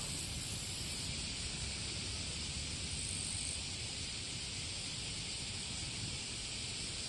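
Wind rumbling on the microphone under a steady high hiss, with no distinct event.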